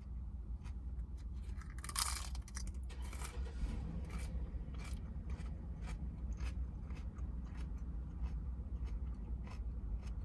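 Someone chewing raw lettuce with the mouth close to the microphone: irregular crisp crunches, with a louder crackling bite about two seconds in, over a low steady hum.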